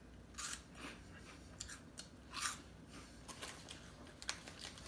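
A person biting and chewing a crunchy puffed snack: faint, irregular crisp crunches a few times a second apart.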